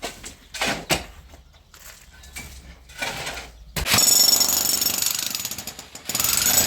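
A few scattered knocks, then about four seconds in an electric demolition hammer starts up loud, hammering rapidly. It stops briefly and starts again near the end.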